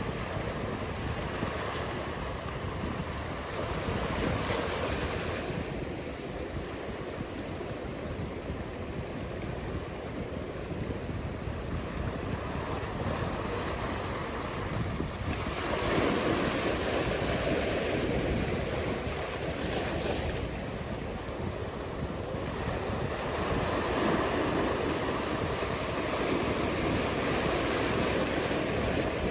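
Ocean surf: a steady wash of breaking waves, swelling louder three times as sets break.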